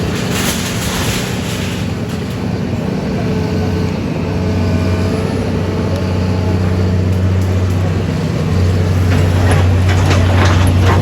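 Heavy engine running steadily with a low drone, growing louder about two-thirds of the way through.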